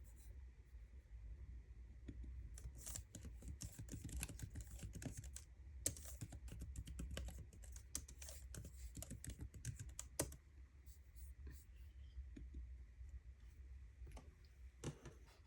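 Typing on a MacBook keyboard: quick, irregular keystrokes in runs, with two sharper key strikes about six and ten seconds in. The typing slows to scattered taps over the last few seconds.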